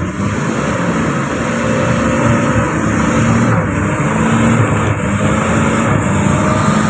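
Truck engine running steadily under load, a constant low drone with road and tyre noise over it.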